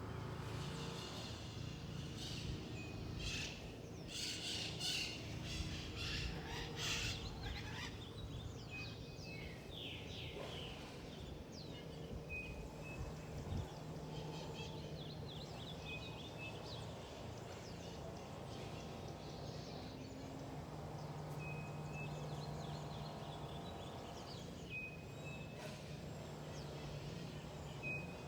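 Wild birds calling in a forest: a burst of rapid chirping a few seconds in, and a short high note repeated every few seconds. A steady low hum runs underneath.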